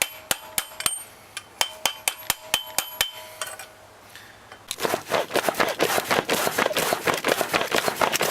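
A hammer striking metal on an anvil: about a dozen sharp blows that ring with a clear metallic tone. After a short pause a dense, fast, noisier clatter starts and goes on to the end.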